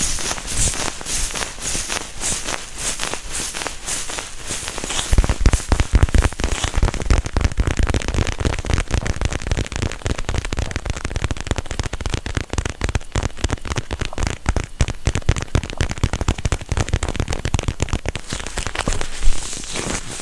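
Close-miked ASMR trigger sounds: fast tapping at first, then dense crackling with low thumps against the microphone from about five seconds in, and one sharper hit near the end.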